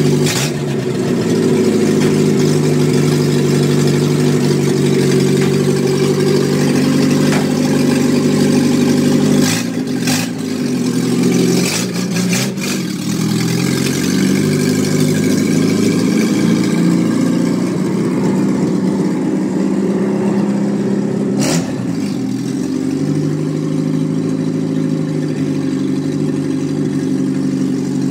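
Car engine running steadily, heard in several clips joined by abrupt cuts, with a slight change in its pitch at each cut.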